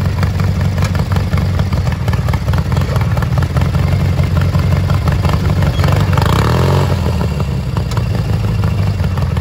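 Small engine of a modified riding lawn mower running steadily under load as it crawls over rocks, with rapid clattering over the engine note.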